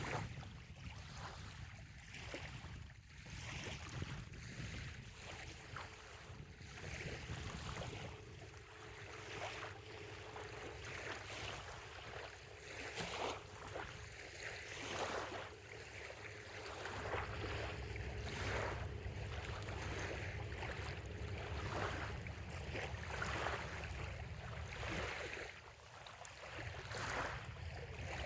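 Small bay waves lapping on a sandy shore, a soft splash about every second, over a low wind rumble on the microphone. A faint steady hum runs through the middle part.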